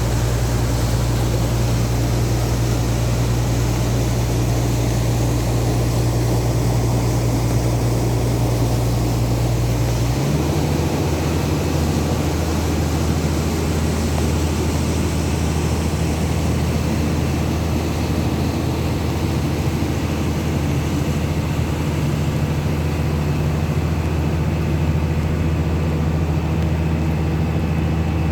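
Heavy rain hissing steadily over the low, even hum of a running vehicle engine. The hum steps up to a higher pitch about ten seconds in.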